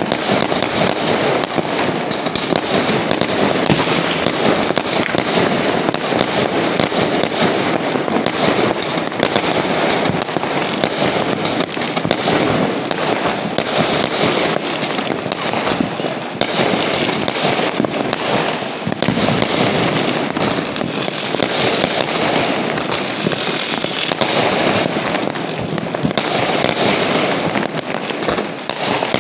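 Fireworks and firecrackers going off in a dense, non-stop barrage: rapid crackling and popping piled on top of each other with no gaps.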